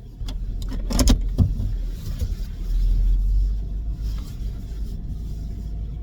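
Car driving, with a steady low road and engine rumble and a few sharp knocks in the first second and a half.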